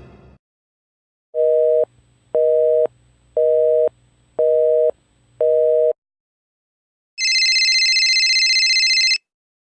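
Telephone busy signal: five even two-tone beeps, about half a second on and half a second off, followed by a high warbling electronic ring lasting about two seconds.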